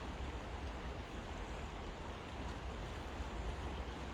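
River water rushing steadily, an even hiss of flowing water, with a low rumble underneath.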